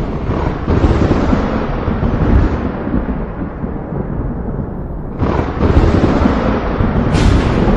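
Thunder rumbling continuously over rain. A fresh clap rolls in about five seconds in, and a sharper crack comes near the end.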